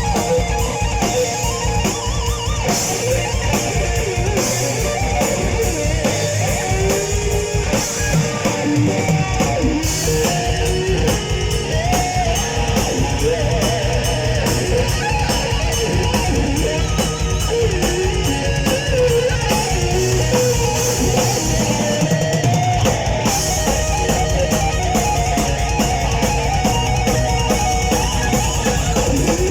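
Heavy metal band playing live, in an instrumental break: a lead electric guitar solo with bending, winding lines over rhythm guitar, bass and drums. The kick drum becomes denser and heavier about three-quarters of the way through.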